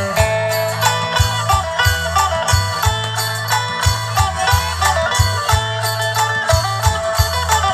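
Isan phin, a plucked lute, playing a folk melody over a steady low drone and a regular beat.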